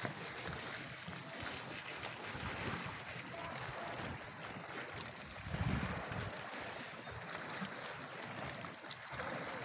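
Wind blowing across the microphone: a steady rushing noise with a low gust about five and a half seconds in.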